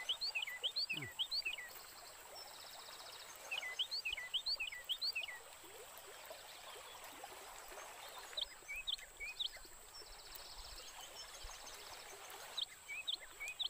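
A bird singing in four bouts of quick, high chirping notes, over a faint steady high-pitched hum.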